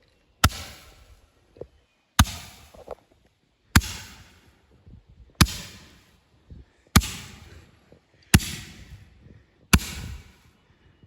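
10-shot Roman candle firing shot after shot: seven sharp pops about a second and a half apart, each followed by a fading hiss.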